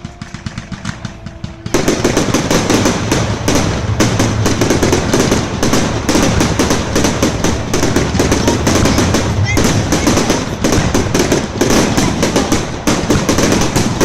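Fireworks going off in a rapid crackling barrage: lighter crackles at first, then about two seconds in a dense, continuous run of quick bangs.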